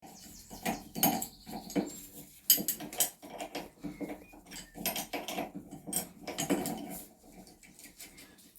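Hand tools and metal parts clinking and knocking irregularly while the racing car's left front suspension is being undone. The clinks fade near the end.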